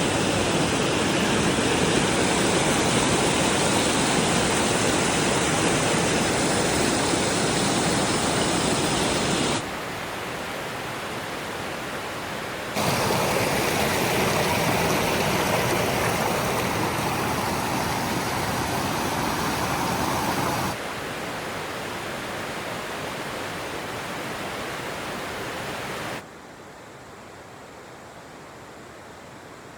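Steady rush of flowing stream water. The loudness jumps abruptly between clips several times and is quietest near the end.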